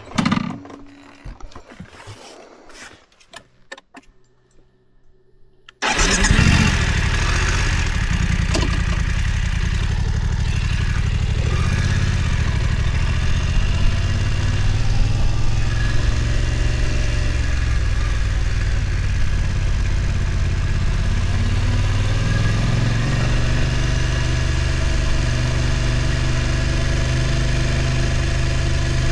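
BMW F900 XR's parallel-twin engine starting about six seconds in, after a few seconds of scattered clicks, then running steadily at idle for the rest of the time.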